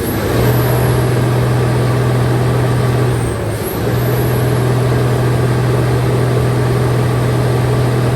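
Mitsubishi Fuso Super Great's 6M70 inline-six diesel engine held at raised revs with a loud, steady drone. It dips briefly about three seconds in, then comes back up and holds again. The engine runs smoothly, which the inspector judges still fine for its age.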